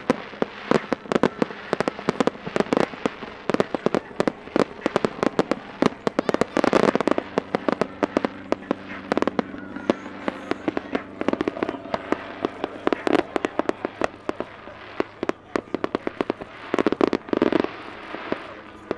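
Helicopter-mounted pyrotechnics crackling and popping in a rapid, dense stream of sharp bangs, with a few louder flurries. A steady low hum runs underneath.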